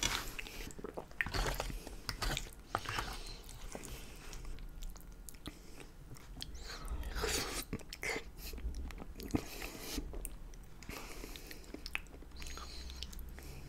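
Close-miked chewing and mouth sounds of a person eating lasagna, with occasional clicks and scrapes of a metal fork in the aluminium foil pan.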